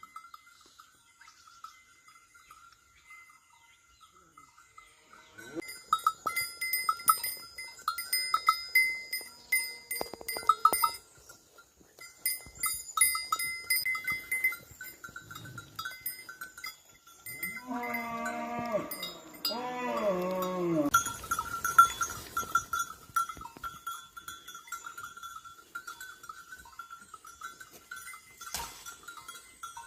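Livestock bells clanging irregularly as the animals move. About two-thirds of the way through, a farm animal calls twice.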